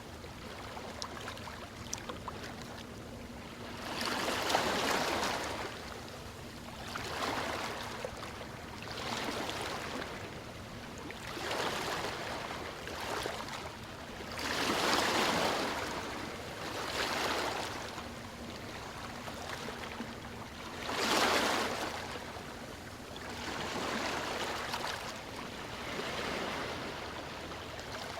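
Ocean waves breaking and washing on a shore, each surge swelling and fading over a few seconds, with a few larger waves standing out.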